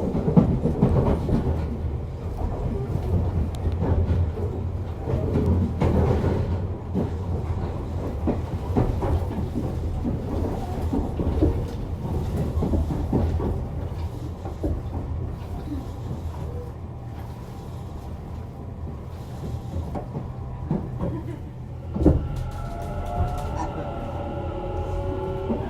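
Tobu 50050 series electric train running, heard from inside the car: a steady low rumble with many clicks of the wheels over rail joints. Near the end, several steady tones of the traction motors' electronic whine come in.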